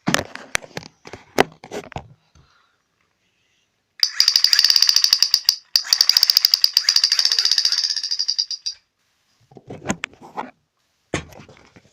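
Toy spark-shooting AK-47 replica firing: two bursts of rapid, even mechanical clicking, about ten clicks a second, the first about a second and a half long and the second about three seconds, with a short break between. Handling clicks and knocks come before and after the bursts.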